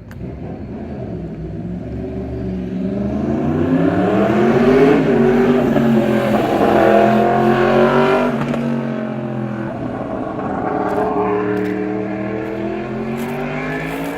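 Yamaha FZ-10's crossplane inline-four running through a Remus exhaust with the catalytic converter deleted. The engine note climbs in pitch and loudness to a peak in the middle, falls away, then rises and eases off again.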